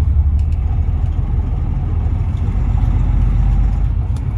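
Semi truck's diesel engine running, heard inside the cab as a loud, steady low rumble, with a few faint ticks over it.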